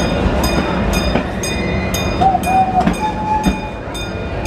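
Amusement-park train's open passenger car rolling along the track with a steady rumble and a regular clicking about twice a second. A short squeal comes about halfway through.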